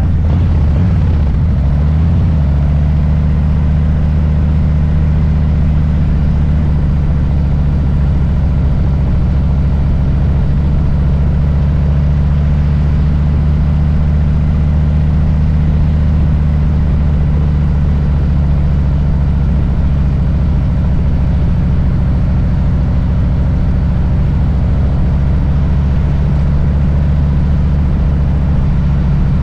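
Harley-Davidson Low Rider S's Milwaukee-Eight V-twin running steadily at low revs, its note shifting briefly near the start and then holding a constant pitch.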